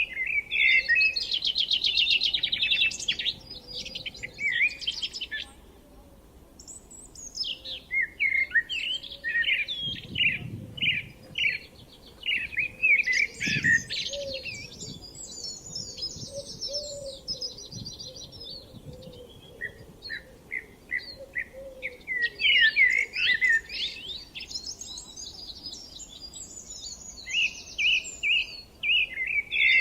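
Songbirds singing: a run of varied chirps and fast trills in repeated phrases with short pauses between them.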